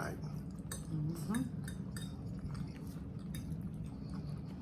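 Eating sounds: chewing, with scattered light clicks of cutlery against a plate, over a steady low hum.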